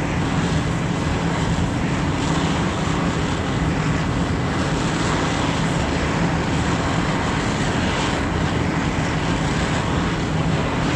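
Torch hissing steadily as it heats a seized idle-stop set screw in a vise, with the 1974 Mack R-model's diesel engine idling evenly underneath.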